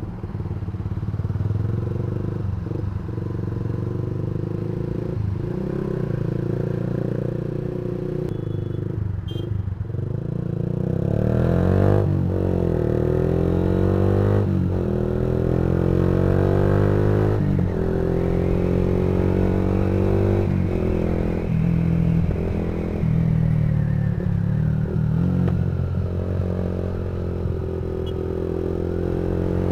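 Yamaha MX King 150's single-cylinder four-stroke engine running through a custom racing exhaust. For the first ten seconds or so the note holds fairly steady; from about twelve seconds in the revs climb and drop back again and again.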